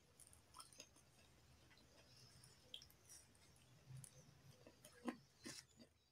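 Faint chewing of tender chicken, with scattered soft mouth clicks and smacks. Several are a little louder near the end.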